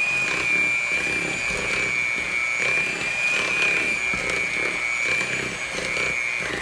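Electric kitchen mixer running on low speed with a steady whine, its beaters working the flour mixture into the butter-sugar batter to make a crumbly cookie dough.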